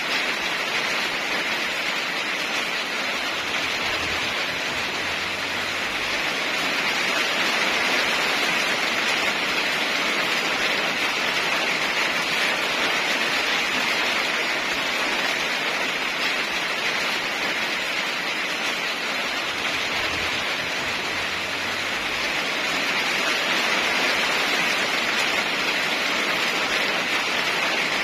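Steady heavy rain, an even hiss of downpour with slight swells in loudness and no thunder.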